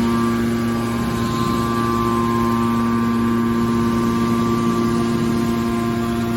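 Hydraulic power unit of a scrap metal baler running with a steady hum, the pump and motor holding an even pitch throughout.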